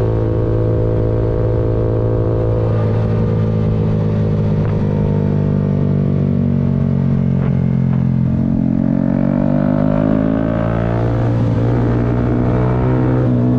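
Yamaha MT-125's single-cylinder four-stroke engine running under way, holding steady revs and then climbing in pitch as it accelerates about two-thirds of the way in.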